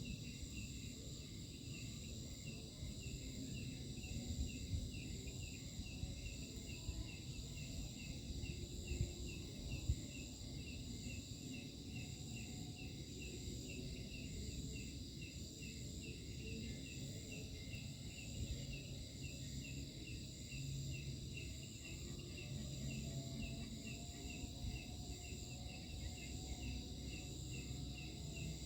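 Night insect chorus of crickets: several steady high-pitched trills layered with a fast, regular chirping pulse, over a low rumbling background noise.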